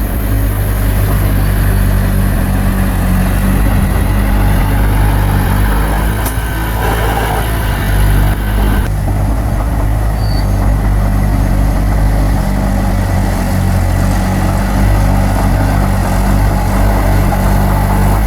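Bulldozer's diesel engine running steadily at a low, even pitch.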